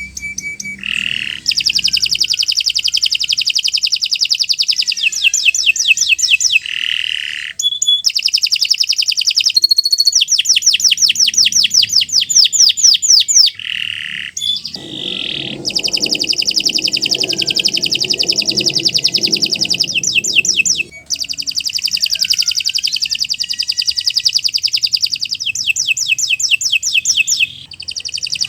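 Domestic canary singing long, continuous phrases of rapid trills and fast repeated notes, with short breaks between phrases every few seconds.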